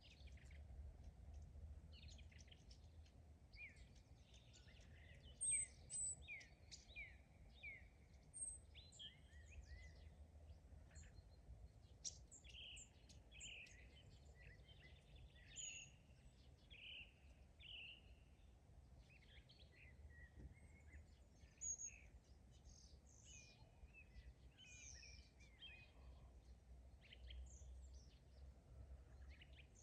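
Faint birdsong from several small birds: many short chirps and whistled notes, a few louder ones standing out, over a steady low rumble.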